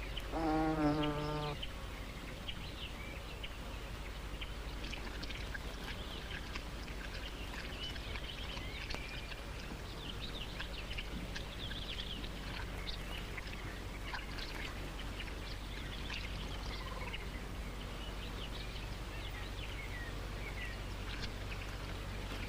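Natural ambience of many small bird chirps and an insect buzz, with one brief steady pitched call about half a second in.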